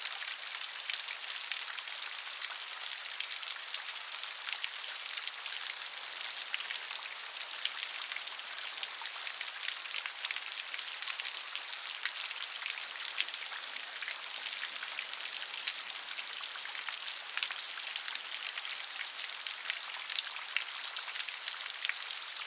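Steady rain, a dense hiss of many fine drop patters striking a surface, even throughout.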